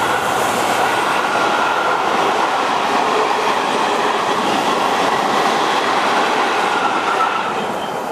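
A train passing close by, its wheels running over the rails in a steady loud rush, easing off near the end as it draws away.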